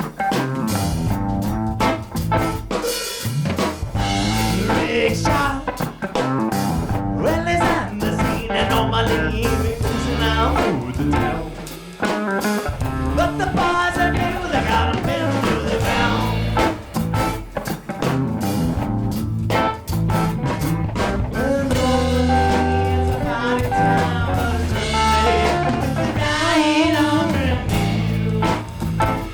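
A band playing live: drum kit and guitar in a blues-style song.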